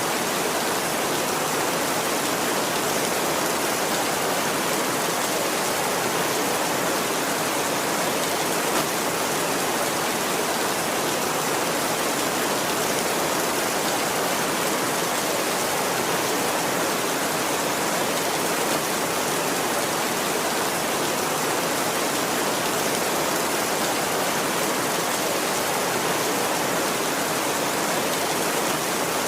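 Steady heavy rain, an even, unbroken hiss with no thunder in it.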